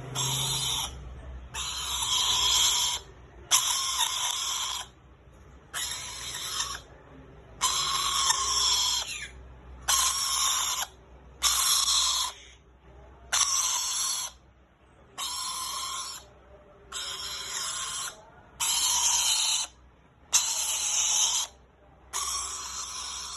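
Parrot screeching: a harsh call of about a second, repeated about every one and a half seconds, a dozen or more times.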